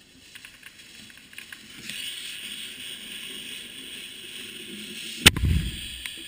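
Lit firework fuse crackling and spitting sparks, swelling into a steady hiss about two seconds in. About five seconds in, one loud boom as a mortar tube in the rack fires its shell, with a low rumble trailing for under a second.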